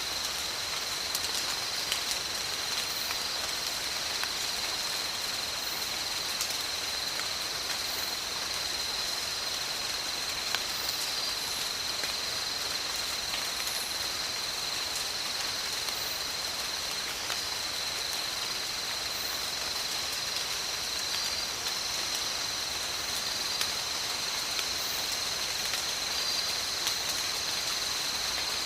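Steady tropical rain falling, with scattered drops ticking, under a continuous high-pitched drone of insects.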